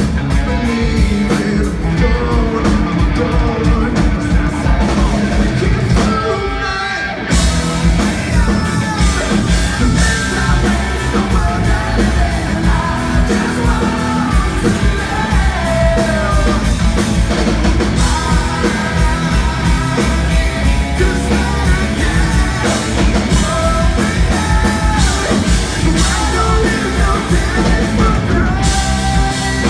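Live band playing a song with a singer. The band thins out briefly about six seconds in, then comes back in at full strength about a second later.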